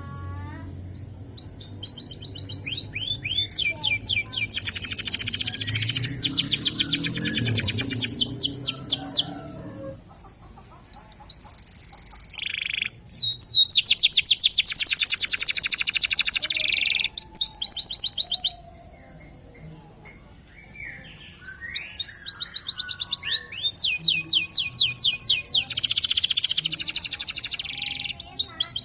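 Domestic canary (Indonesian local canary) singing rapid, high rolling trills in long phrases. The song breaks off about ten seconds in and again for a few seconds past the middle.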